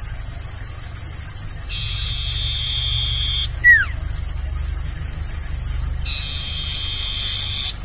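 Sirtu (common iora) singing: a long, steady high note held for about two seconds, then a short, sharp note sliding down in pitch just before four seconds in, and a second long held note from about six seconds that stops near the end. A low hum runs underneath.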